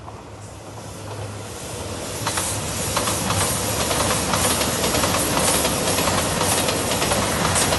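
A JR Shikoku 2700 series diesel multiple unit passing at speed. The sound grows louder over the first two or three seconds as the train draws level, then holds as a steady rolling rumble and hiss with a fast rattle of wheels over the track.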